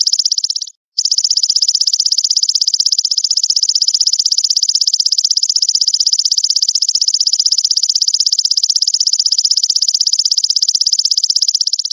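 Belalang mas grasshopper calling: a loud, continuous, high-pitched rapid buzzing trill. It cuts out to silence for a moment just under a second in.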